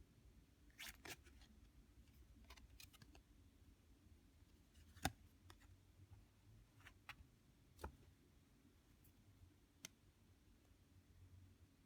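Lenormand cards and their box being handled: faint, scattered clicks and taps over near silence, the sharpest about five seconds in and another near eight seconds.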